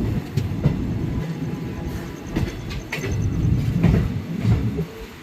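Passenger train running along the track: a steady low rumble with irregular clicks as the wheels pass over rail joints.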